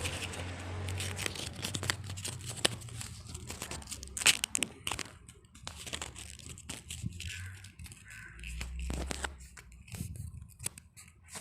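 A paper receipt being crinkled and worked in the hands, making irregular sharp crackles and rustles.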